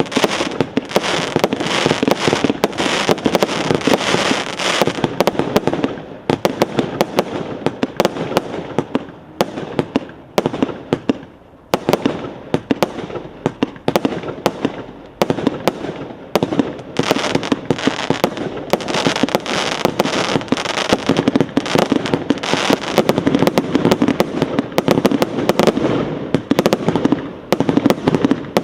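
A multi-shot firework battery firing rapid bangs and crackles with little pause, thinning briefly about ten seconds in before picking up again.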